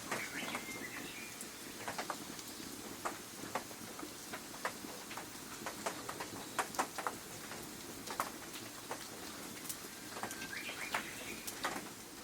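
A few short bird chirps, near the start and again near the end, over a soft steady hiss scattered with irregular sharp ticks.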